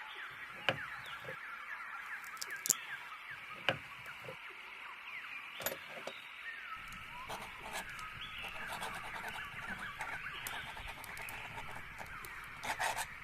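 Many small birds chirping together in a busy, continuous chorus of short, quick calls, with a few sharp taps scattered through the first six seconds.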